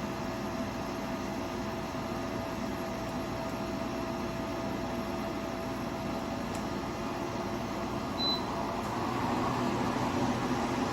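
Portable spot-cooler air conditioner running with a steady hum and airflow noise. A short high beep sounds about eight seconds in, and the running gets a little louder just after it.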